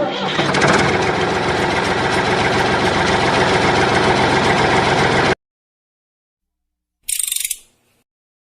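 Small electric motor with gears running steadily with a gritty whir, stopping abruptly about five seconds in. A brief hiss follows near the end.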